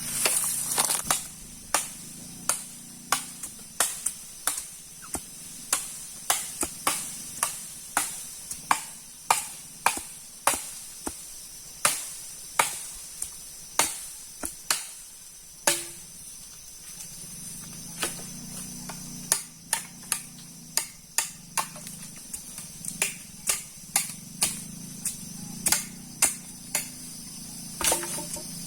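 Sharp knocks repeated about one to two times a second, like a blade or tool striking wood, pausing briefly about halfway through. A steady high insect drone runs underneath.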